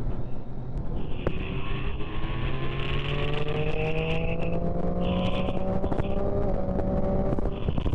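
Motorcycle engine, most likely the rider's own Triumph Street Triple 675 inline three, pulling steadily, its pitch rising slowly for several seconds before easing off near the end, over a steady rush of wind noise.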